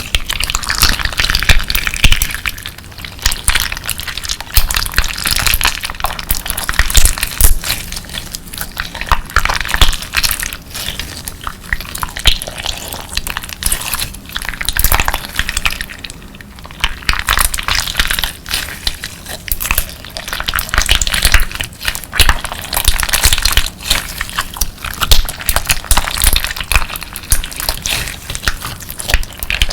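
Clear slime mixed with colourful crystal pieces being squeezed and pressed by hand, giving dense crunchy crackling and clicking. There is a short lull about halfway through.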